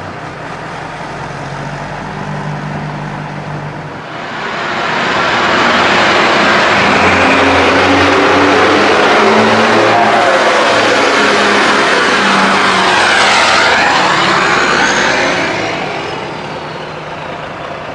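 Heavy truck diesel engines at low revs, then a truck driving close past. The loud pass runs from about four seconds in and dies away near the end.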